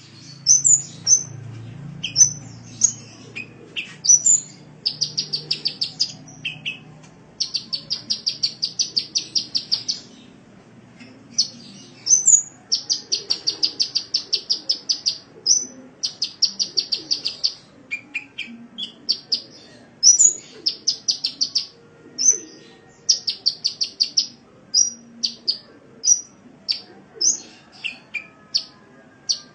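Sunbird singing: a run of sharp, high-pitched chirps broken up by rapid, even trills of one to two seconds, repeated over and over.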